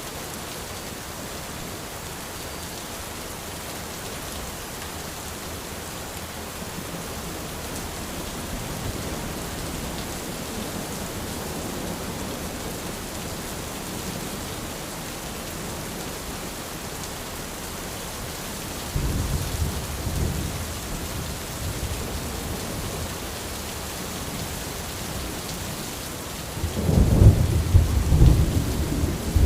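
Steady rain falling on an umbrella. About two-thirds of the way through, and again more loudly near the end, a sudden low rumble rises over the rain for a second or two.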